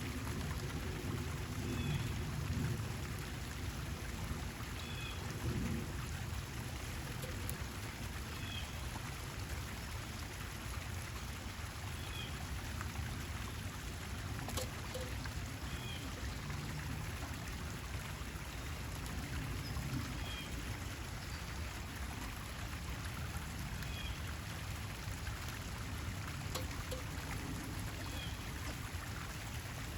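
Steady running water, like a stream or a pond's trickle. A bird gives a short, faint two-note call about every three to four seconds over it.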